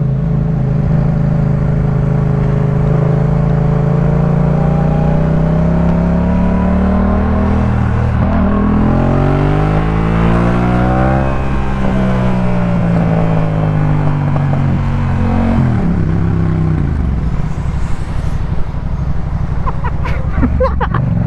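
Yamaha MT-07's 689 cc parallel-twin engine through a Jeskap K4 full aftermarket exhaust, pulling under load. The note climbs, breaks briefly about a third of the way in, and climbs again to a peak about halfway. It then falls as the bike slows, running low and steady near the end.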